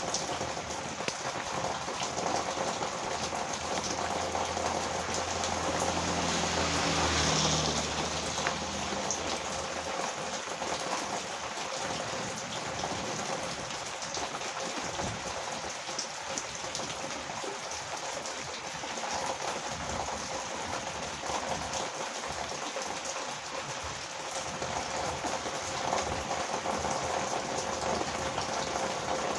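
Heavy rain falling steadily on a road, with a vehicle's engine passing by, growing louder to a peak a few seconds in and then fading away under the rain.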